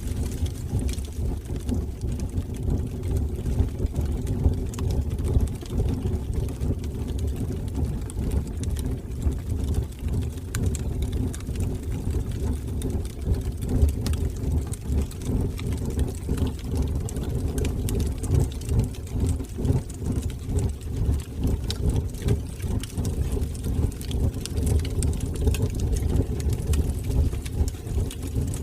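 Wood fire burning in a fireplace: a steady low rumble of flames with faint scattered crackles.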